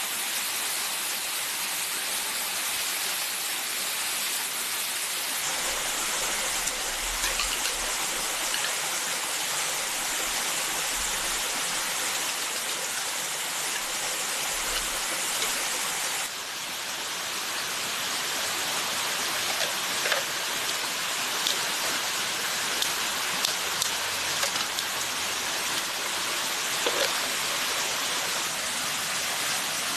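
Steady rush of running water, an even hiss with no pitch to it. It dips briefly and changes character about halfway through. A few sharp short taps or drips stand out in the second half.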